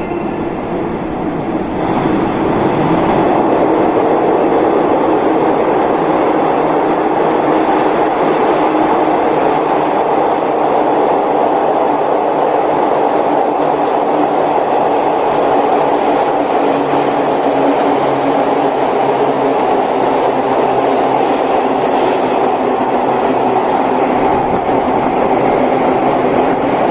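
A JR 185 series electric multiple unit passes through a station without stopping, its wheels and running gear making a steady rail noise that builds about two seconds in and holds. The noise echoes in the tunnel around the station's underground platform.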